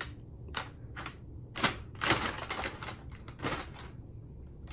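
Packing paper crinkling and crackling in about six short bursts, the longest a little after two seconds in, as a cat pounces and scrabbles on it.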